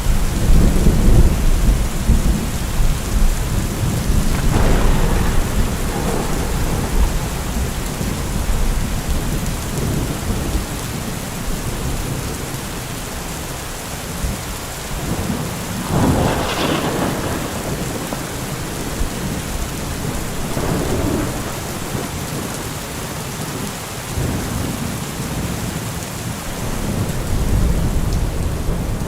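Heavy rain falling steadily. A deep low rumble runs through the first few seconds, and the spatter swells louder a few times, most strongly about halfway through.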